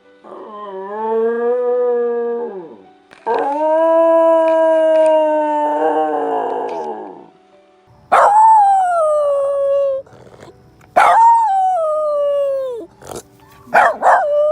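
Dogs howling: a run of long howls, the first ones held fairly level, the later ones starting high and sliding down, with a few short cries near the end.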